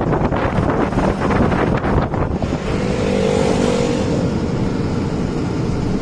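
A loaded 14-wheeler heavy truck running on the highway: steady engine and road noise, with a held pitched tone sounding for about a second and a half around the middle.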